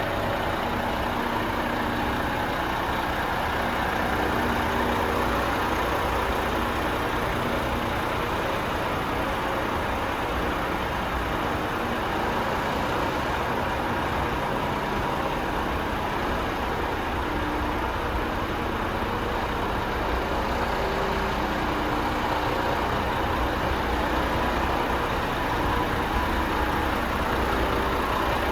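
Renault T430 tractor unit's 430 bhp turbo diesel engine idling steadily.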